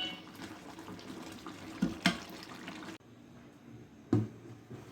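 Faint cookware handling as the pot is taken off the stove: a couple of light clicks about two seconds in and a dull knock near the end, over a low hiss.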